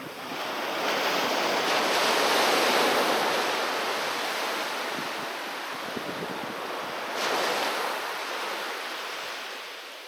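Ocean waves breaking on a beach: one wave crashes and washes up about a second in, a smaller surge follows near the middle, and the surf fades away as the water draws back.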